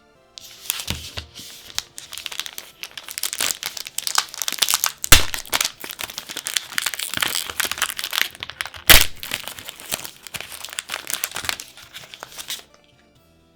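Trading card packaging wrapper crinkled and torn open by hand: a dense run of crackling, with two sharp, louder snaps about five and nine seconds in. It stops a second before the end.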